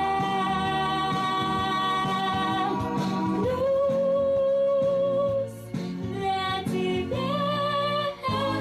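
A female singer holds long sustained notes over backing music in a slow blues song, sung in Russian, her pitch stepping down between notes with short breaks in between.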